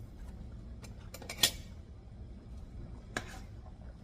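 Metal kitchen utensil clinking against a cooking pot: a sharp clink about a second and a half in, another about three seconds in, with a few lighter ticks.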